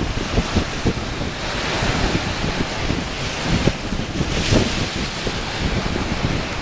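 Ocean waves lapping and washing against rocks: a continuous rushing with swells of spray hiss about two and four and a half seconds in. Wind buffets the microphone with a low rumble throughout.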